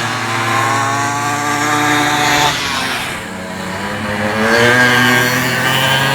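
Two-stroke minimoto (pocket bike) engines racing past at high revs, their pitch rising and falling. The sound dips about halfway through and builds again as more bikes come by.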